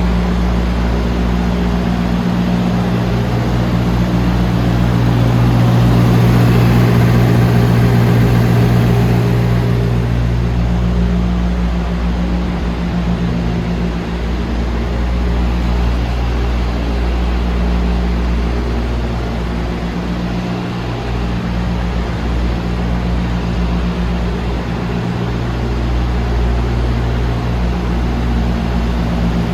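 DAF CF290 rigid truck's diesel engine idling steadily, growing somewhat louder for a few seconds about five seconds in.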